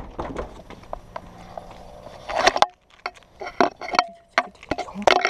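A run of irregular clicks and knocks over a faint low hum. The hum cuts off abruptly a little past halfway, and the knocks carry on as short separate taps.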